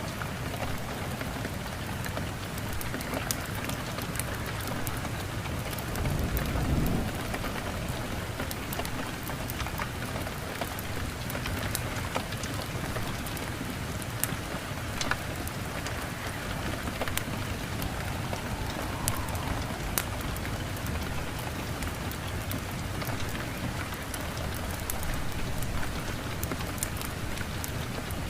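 Steady rain with a brief low rumble of thunder about six seconds in, and scattered sharp crackles from a fireplace fire throughout.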